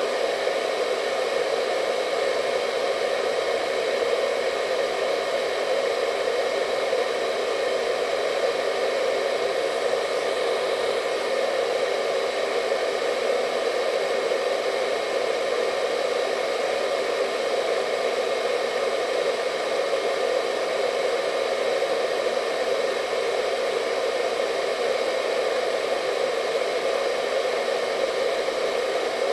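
Hair dryer running steadily: an even rushing of air with a hum centred in the lower midrange and a faint high whine, unchanging throughout.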